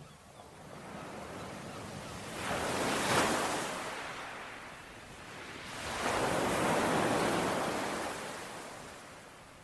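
Ocean waves washing on a shore: one wave surges and breaks about three seconds in, a longer one from about six to eight seconds, each fading back into a soft hiss.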